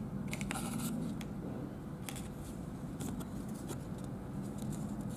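Sheet paper rustling and crinkling in short, crisp bursts as a folded paper airplane is handled, over a steady low hum.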